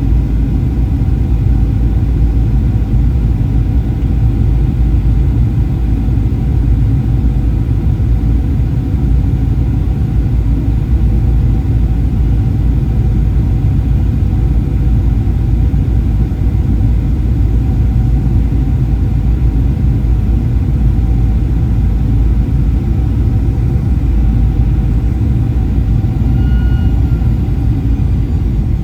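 Cabin noise inside a Boeing 737-800: a steady low rumble of its CFM56 engines and airflow, with a few constant tones over it. A brief faint rising tone comes near the end.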